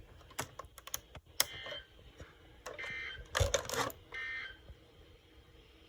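A run of sharp clicks followed by three short, buzzy electronic beeps about a second and a half apart, with a louder crackle between the second and third.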